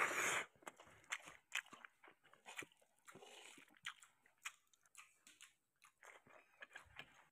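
A person eating rice and canned sardines by hand: chewing with many short mouth clicks. A louder rush of noise comes right at the start.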